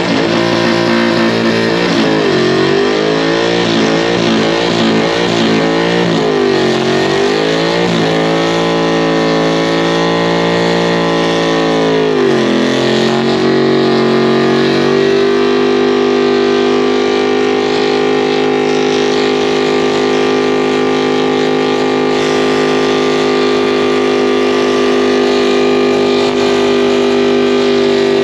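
A pickup truck's engine revving hard in a burnout, with the tyres spinning. The revs rise and fall several times, drop sharply about twelve seconds in, then hold steady at high revs from about fifteen seconds on, over a constant hiss.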